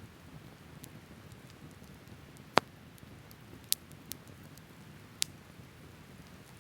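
Open wood fire burning with a low steady rumble and a few sharp crackling pops from the burning wood, the loudest about two and a half seconds in.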